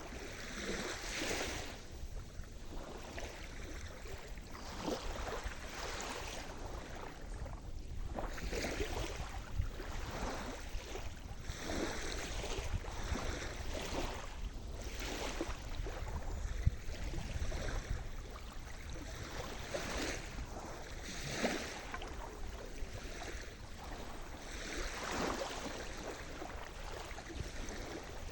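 Sea surf: small waves breaking and washing on the shore one after another, swelling irregularly every few seconds, over a steady low rumble.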